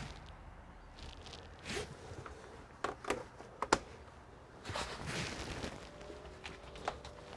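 Handling of computer parts and tools: a few sharp clicks and small knocks, with some rustling and scraping in between.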